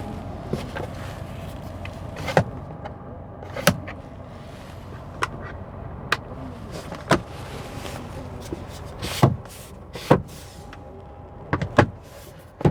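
Sharp clicks, about ten of them at irregular intervals, as the car's cabin switches and buttons are pressed, over a steady low hum.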